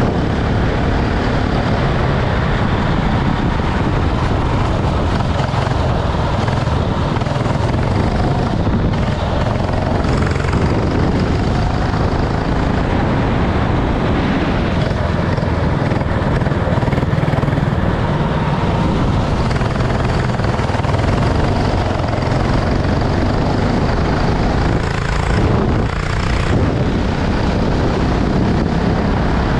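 Racing kart engine running hard and steady, with a dense rush of wind and road noise over it.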